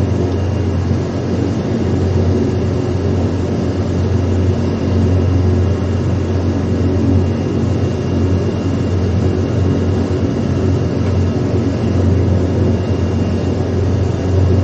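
Steady, loud engine drone with a strong low hum and several steady tones above it, running without change.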